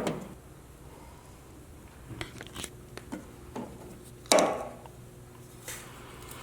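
Hand wiring tools working on butt splice connectors: two sharp snaps, one at the start and one about four seconds in, with lighter metallic clicks in between.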